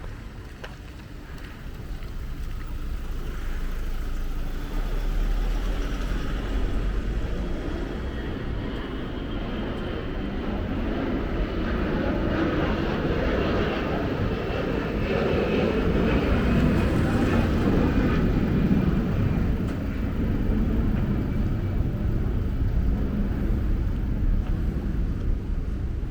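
Vehicle noise, a rumble that builds over a dozen seconds or so and then stays loud, with a faint whine in it.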